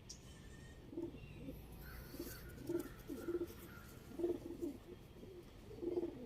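Domestic pigeons cooing: a series of about five low, throaty coo phrases, a second or so apart.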